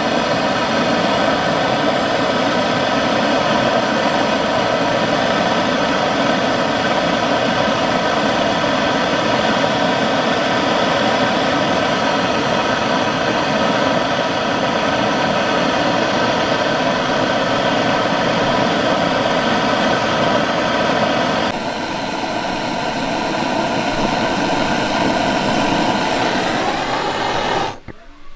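A motor-driven machine running steadily with a loud rushing hiss and a fixed hum. Its tone shifts slightly about 21 seconds in, rises briefly near the end, then cuts off suddenly.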